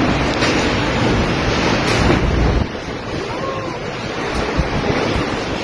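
Strong tornado wind rushing and buffeting the microphone in a loud, steady roar that eases slightly about two and a half seconds in.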